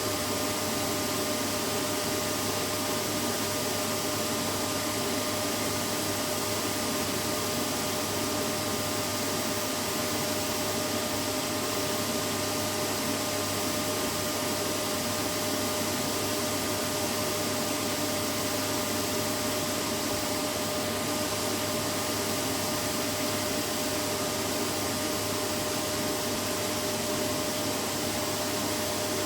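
Vacuum cleaner running steadily and without change: a continuous rushing of air with a steady motor whine.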